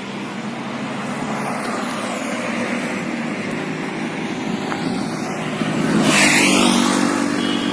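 Road traffic with an engine hum, growing louder as a vehicle passes close by and peaking about six seconds in.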